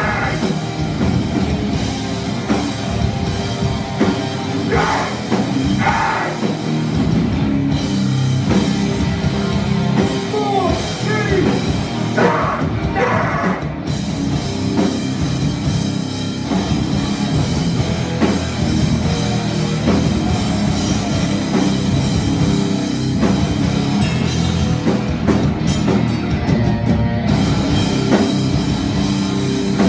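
Live hardcore punk band playing loud, with drums and vocals that are strongest in the first half.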